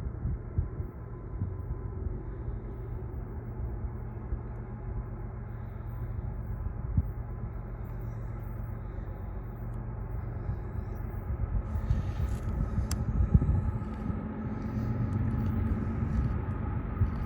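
Diesel locomotives of an approaching freight tank train, running with a steady rumble that slowly grows louder.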